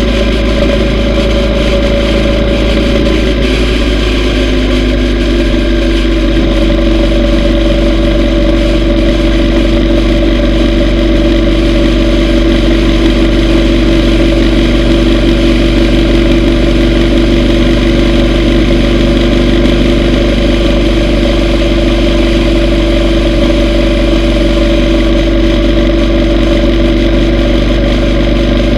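Yamaha V Star 950's V-twin engine running steadily on the road, heard from on board with a constant low rush of wind. Its pitch shifts a few seconds in, then holds steady.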